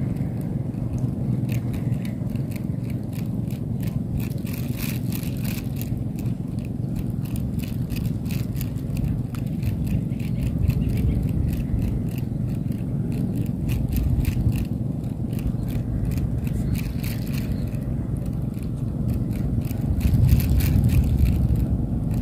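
Strong wind buffeting the microphone: a steady low rumble, with fast, even ticking running under it that grows a little louder near the end.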